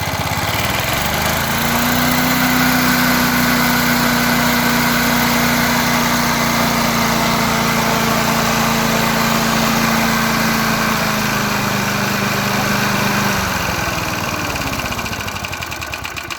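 Restored 36-year-old lawn mower's four-stroke engine, with a freshly cleaned spark plug, running. It is revved up about a second in, held steady at high speed, then throttled back down near the end.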